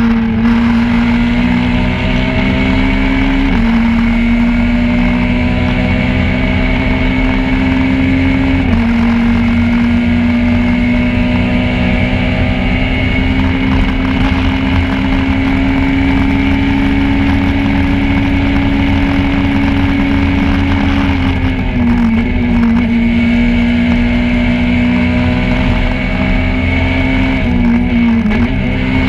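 Peugeot 208 R2 rally car's 1.6-litre four-cylinder engine heard from inside the cabin, held at high revs with its pitch climbing slowly through each gear and dropping sharply at several gear changes. Steady road noise runs underneath.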